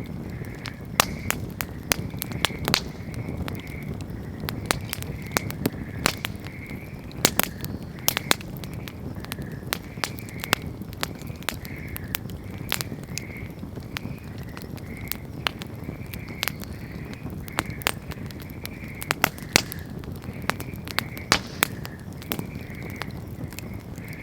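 Wood campfire crackling, with irregular sharp pops and snaps over a low steady rumble of burning.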